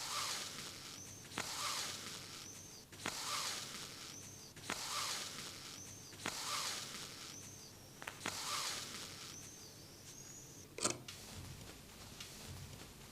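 Needle and thread drawn through denim by hand, stitch after stitch: a short click and then a hissing swish of thread, about every second and a half to two seconds, with a faint thin squeak from the thread. A sharp click near the end stops the stitching.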